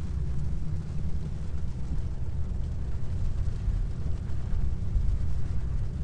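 A car driving, heard from inside: a steady low rumble of road and engine noise.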